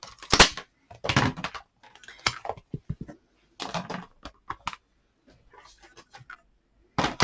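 Irregular small clicks, taps and rustles of stamping supplies being handled, as a photopolymer stamp is swapped for another.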